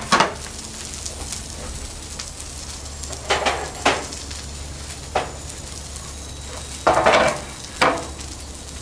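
Scallions, asparagus and green beans sizzling steadily in oil on a Blackstone flat-top griddle, with a few short knocks and clatters as a wooden cutting board is handled and set down on the griddle, the last two near the end.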